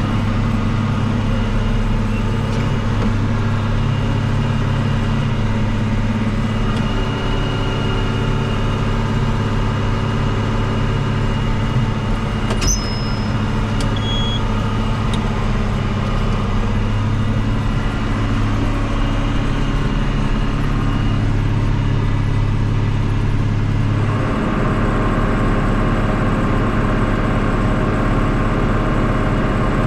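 Tractor engine running steadily. About twenty-four seconds in, the engine note changes: the deep hum drops away and a higher note comes up.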